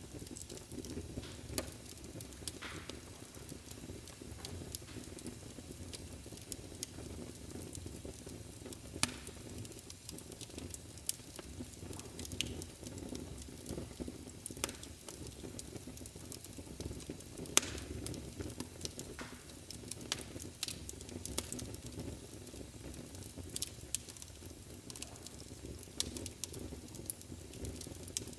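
Wood fire burning in a fireplace: a steady low hiss and rumble of the flames with irregular sharp crackles and pops from the burning logs.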